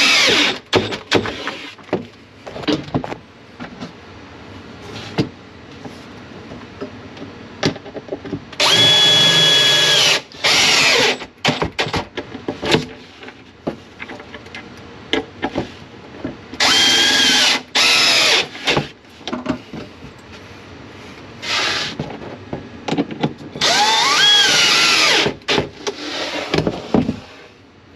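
Power drill run in short bursts of one to two seconds, about five times, its motor pitch rising as it spins up and falling as it slows to a stop. Clicks and knocks of handling come between the bursts.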